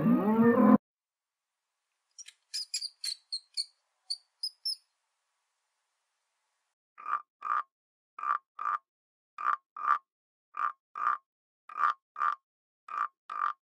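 A cow's moo cut off abruptly within the first second, then a quick run of about eight short, high squeaks from a rat. From about halfway on, a frog croaks in pairs, a pair roughly every second, steady and repeating.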